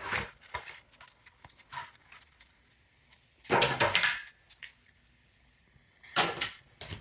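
A few short rustling bursts from a foil booster pack and its cards being handled and opened. The loudest rustle comes about halfway through, and two shorter ones come near the end.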